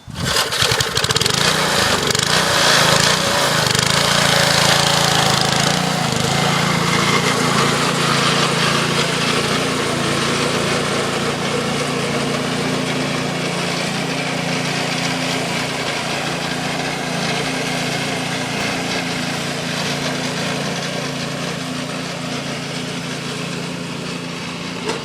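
Small single-cylinder 3 hp Briggs & Stratton engine running steadily on a Copar Panzer garden tractor being driven. It is loudest in the first few seconds and slowly fades.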